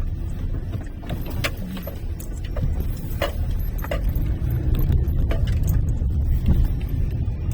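Car being driven: a steady low rumble of engine and road, with several sharp clicks and small rattles between about one and five and a half seconds in.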